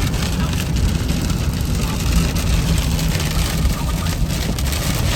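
Steady road and engine noise of a car being driven: a continuous low rumble with a hiss of tyres and wind.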